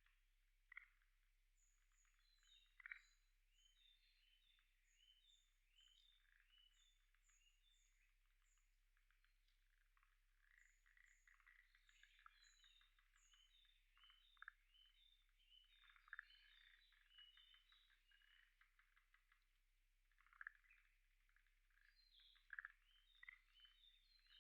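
Faint chorus of frogs calling from a pond, many short chirping calls overlapping, with a few louder calls standing out. Short runs of very high, thin notes come and go over it.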